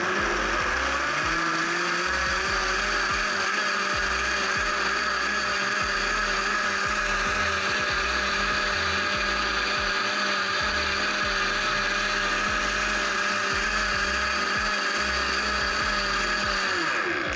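Vitamix blender motor running, blending tomato soup with soft tofu. Its pitch rises as it speeds up over the first second or two, holds steady, then winds down and stops near the end.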